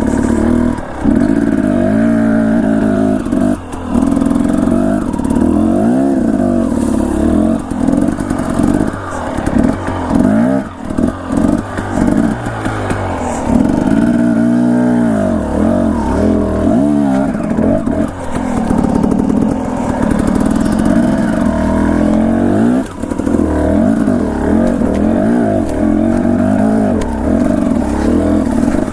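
Dirt bike engine being ridden on a trail, its revs climbing and falling again and again as the throttle opens and closes, with short drops in loudness when the throttle is rolled off.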